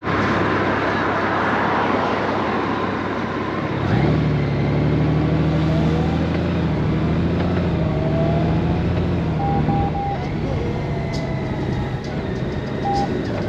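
Honda Gold Wing motorcycle on the move: wind and road rush at first, then about four seconds in the flat-six engine's steady low hum comes up under it. Three short beeps come a little before ten seconds, and one more near the end.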